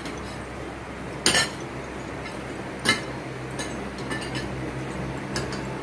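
Spoons and forks clinking against ceramic plates and dishes as people eat, with two sharper clinks, about a second in and near three seconds, and a few lighter taps, over a steady low hum.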